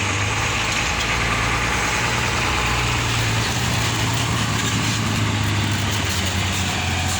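Scania diesel engine of a Marcopolo Paradiso G7 1200 coach idling with a steady low hum.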